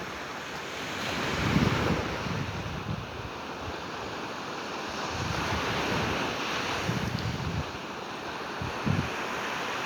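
Sea waves washing onto a beach, the surf swelling and easing, with wind buffeting the microphone in low gusts.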